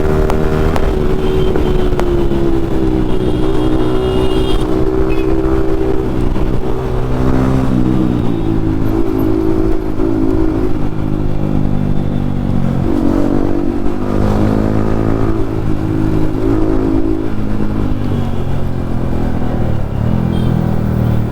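Yamaha MT-15's single-cylinder engine through an aftermarket Akrapovic exhaust, running hard on the road. The engine note climbs and drops back several times as the throttle opens and closes through gear changes.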